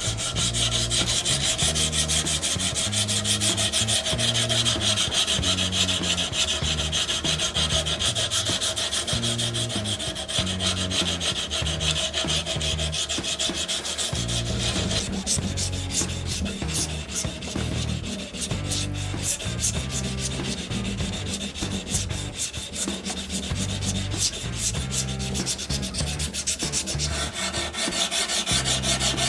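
Abrasive sanding of the railroad-spike knife during finishing: continuous rubbing and scraping, its tone changing about halfway through.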